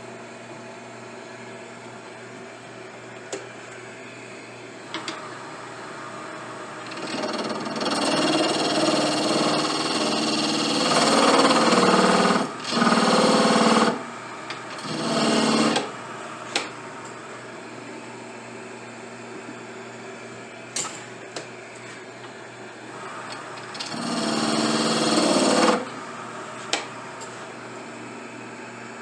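A power tool runs in bursts: one long run about a quarter of the way in, then two short ones, and another run near the end. It is heard over a steady workshop machine hum, with a few sharp clicks in between.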